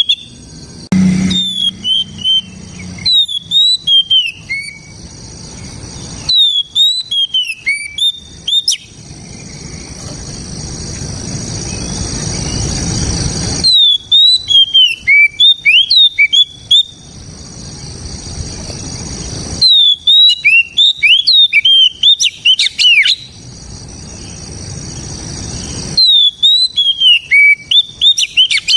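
Oriental magpie-robin (kacer) singing: loud bursts of clear whistled notes, many sliding down in pitch, repeated five times a few seconds apart. A steady hiss slowly swells in the gaps between the bursts.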